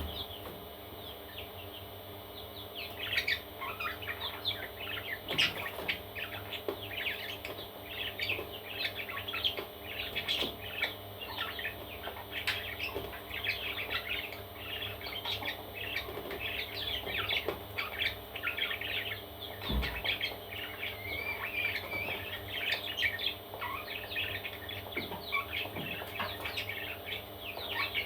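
Parrot chicks chirping in a dense run of quick, high-pitched calls that start about three seconds in.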